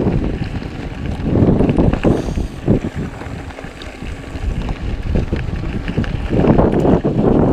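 Wind rushing over a mountain biker's camera microphone while riding, with scattered sharp knocks and rattles from the bike on rough trail. The rush swells about a second in and again near the end.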